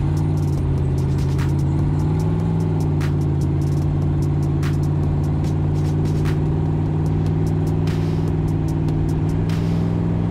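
Twin-turbo Cutlass engine running at a steady, even pitch, heard from inside the cabin, with a sharp tick about every second and a half.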